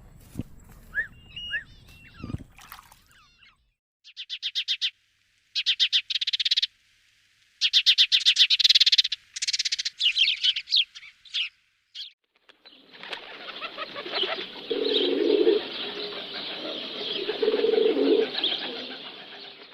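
Animal calls in several short segments: a few brief chirps, then bursts of fast rattling calls, then several seconds of dense rustling noise with low calls in it.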